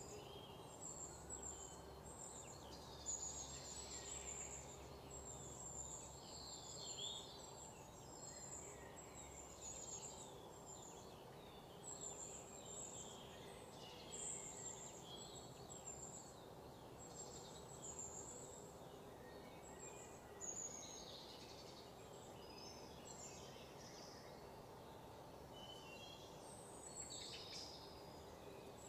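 Faint birds chirping over and over in short high calls, over a faint steady background hum.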